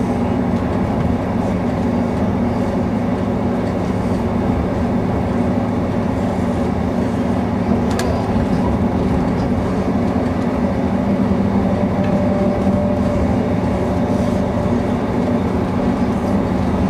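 Passenger train running at speed, heard from inside the carriage: a steady rumble and drone, with one sharp click about halfway through.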